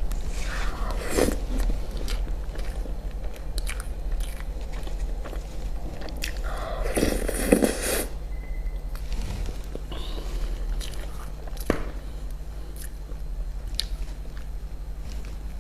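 Close-miked eating: bites and chewing with small crisp clicks and crunches, and a longer, louder crunch about seven seconds in, over a faint steady low hum.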